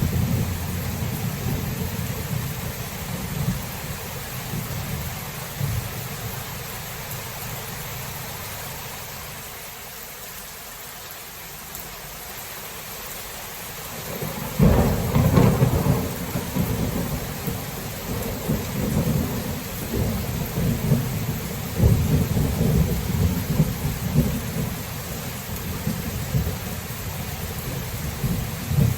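Thunderstorm: steady rain with rolling thunder. The rumble dies down for a few seconds, then a loud peal of thunder breaks about halfway through and keeps rumbling.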